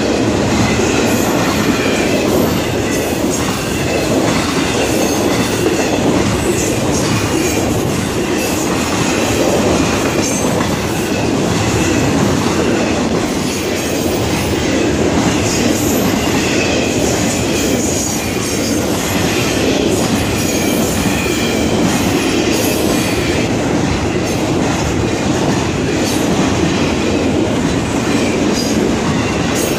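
Double-stack intermodal freight cars of a Florida East Coast Railway train rolling past at speed: a steady, loud noise of steel wheels on rail with scattered clacks over the joints and a faint high wheel squeal at times.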